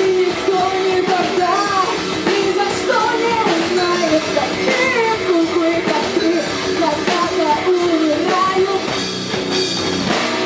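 Rock band playing live: a singer's wavering vocal melody over distorted guitars and a driving drum kit.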